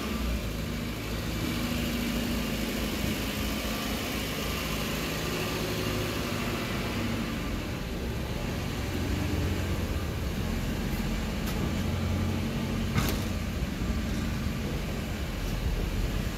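Maruti Suzuki Eeco van's engine running at low revs while the van is manoeuvred slowly out of a tight parking space, its pitch shifting a little as the driver works the throttle. A single sharp click about thirteen seconds in.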